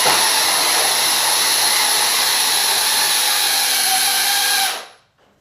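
Electric motor and gearing of an RC pulling vehicle whining steadily at full throttle during a pull, then winding down and stopping near the end.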